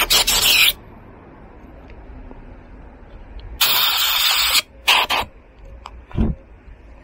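A few quick rubbing or scrubbing strokes end just after the start. About three and a half seconds in, a spray hisses steadily for about a second, then comes a second, shorter spray burst and a dull low thump.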